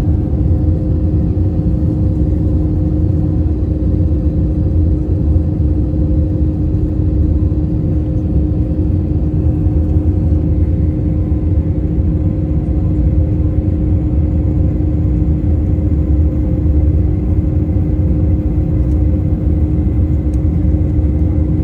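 Steady cabin noise of an Airbus A321-231 with its IAE V2500 engines running: a deep, even rumble with a constant hum running through it.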